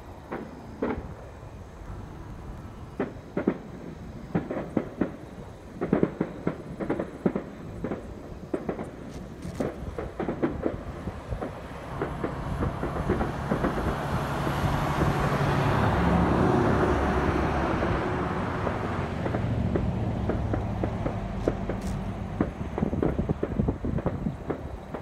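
Fireworks going off: a rapid, irregular series of sharp bangs and pops. In the middle, a long low rumble swells up, peaks and fades back over several seconds under the bangs.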